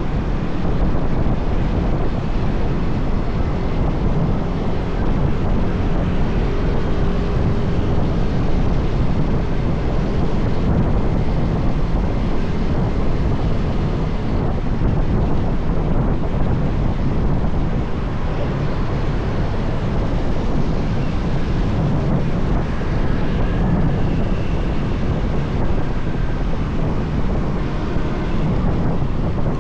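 Steady rush of wind buffeting the microphone of a moving motorbike, with the motorbike's engine and passing road traffic mixed in underneath.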